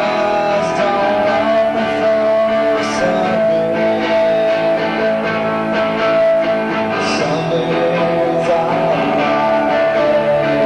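Rock band playing live, electric guitar leading with a long ringing held note over the chords, heard through an audience cassette recording.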